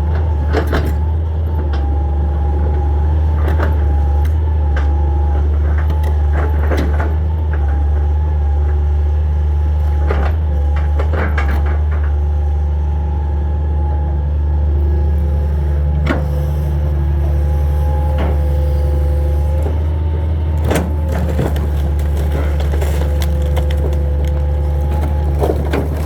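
Hitachi 225 (22.5-ton) excavator running steadily under load. The diesel engine's low rumble carries a steady hydraulic whine, and scattered cracks and knocks come from debris and wood being handled.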